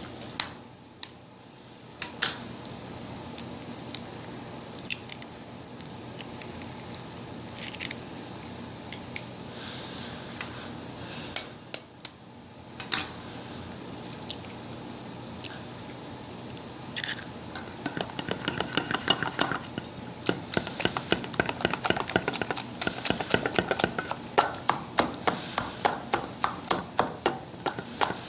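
A few scattered knocks and taps on a mixing bowl as eggs go in, then a utensil beating the batter, clicking rapidly against the bowl several times a second for the last third.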